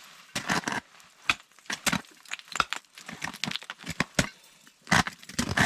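Ice axe and crampon points striking and biting into ice and hard snow on a steep climb: a string of irregular sharp crunching impacts, with scraping between them.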